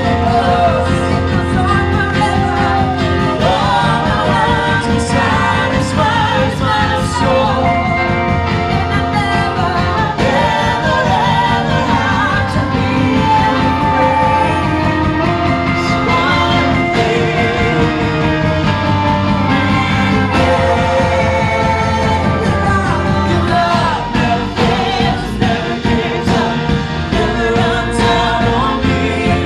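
Live Christian praise and worship music: an amplified band with a steady beat and bass playing under singing voices.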